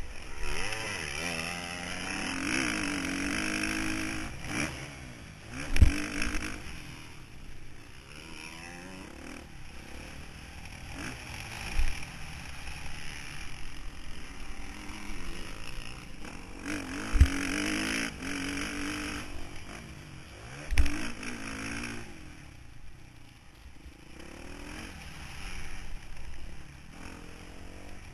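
Motocross bike engine heard from an onboard camera, revving up hard and dropping back again and again through the lap. Several sharp heavy thumps and a rattling camera mount come through along the way.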